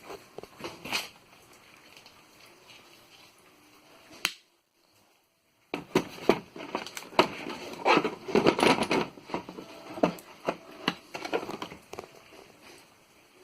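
Handling noises from PEX crimping tool parts and supplies: scattered clicks and rustling, then a busier stretch of clattering and crinkling. There is a short gap of silence about four and a half seconds in.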